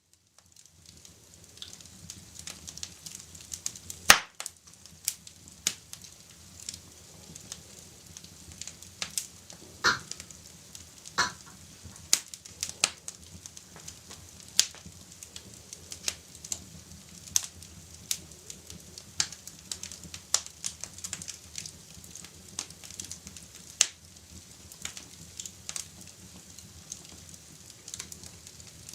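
Wood fire crackling, with irregular sharp snaps and a loud pop about four seconds in, over a steady soft hiss of rain on a window.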